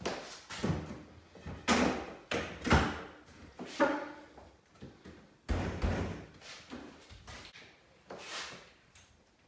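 Irregular knocks and thuds from hand work on the repair, about ten strikes with uneven gaps between them.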